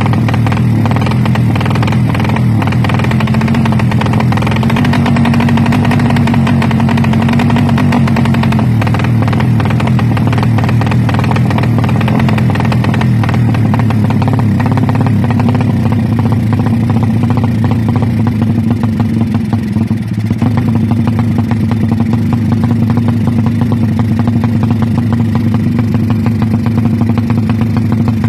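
Two-stroke underbone drag bike engine running through a JRM racing exhaust, held steadily at a fast idle or light revs. Its pitch rises slightly about four seconds in, settles back a few seconds later, and the sound briefly dips about twenty seconds in.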